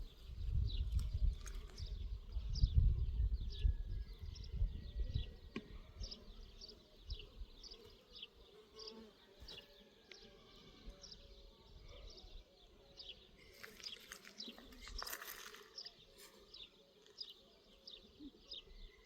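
Insects buzzing, with short high chirps repeating about twice a second. There is a low rumble during the first few seconds and a brief rush of noise about three-quarters of the way through.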